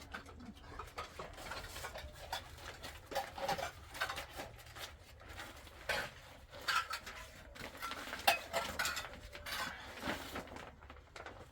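Dishes and utensils being handled: irregular clinks, knocks and scrapes, the sharpest a little after eight seconds in.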